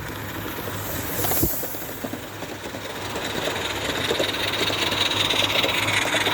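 Live-steam garden-railway locomotives running together, an Accucraft Mortimer and a passing Battle of Britain class engine: quick exhaust chuffs over steady steam hiss. The hiss grows louder from about halfway through.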